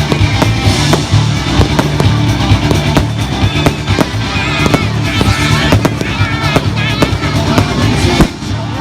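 Fireworks banging and crackling in quick, irregular succession, with music playing underneath.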